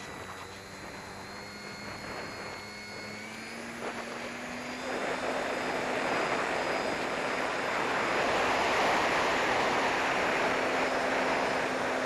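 Radio-controlled model plane's motor and propeller running, its whine edging up in pitch as the throttle opens, with a rushing noise that grows much louder about five seconds in as the plane gets under way.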